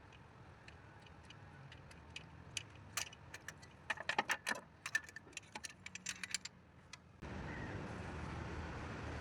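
An engine running with a low hum, with irregular metallic clicks and clinks over it for the first six seconds or so. About seven seconds in, a louder steady rushing noise starts suddenly.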